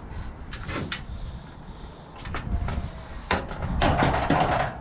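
Sharp clicks and knocks, then a longer, louder scraping rasp near the end, from the sheet-metal casing of a gas hot water unit being handled and opened up.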